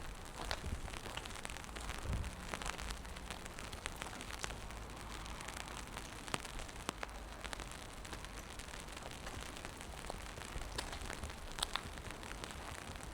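Steady rain falling on wet pavement, with scattered sharp drips and taps.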